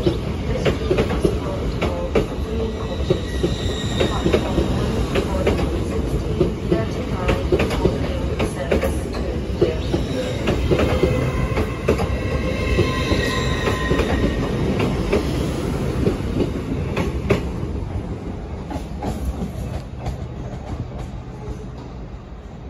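LNER Azuma passenger train running past at close range, its wheels clicking over rail joints with a high wheel squeal twice, briefly near the start and longer about halfway through. The sound fades over the last few seconds as the end of the train goes by.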